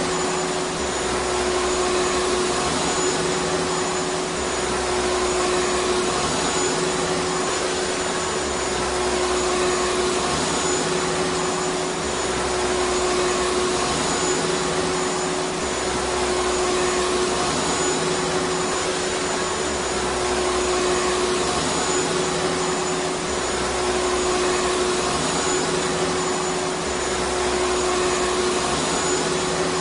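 Vacuum cleaner running steadily: a constant motor whine over rushing air noise, with a slight rise and fall every few seconds.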